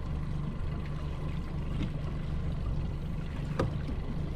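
Low, steady rumble of a small skiff's outboard motor running at idle, mixed with wind buffeting the microphone. A single sharp knock about three and a half seconds in.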